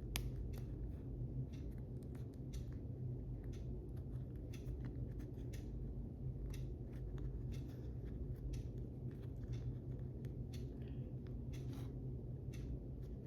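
Scattered small clicks and snips of a tiny wheel rim being worked into a soft rubber tyre with a foam insert, over a steady low hum.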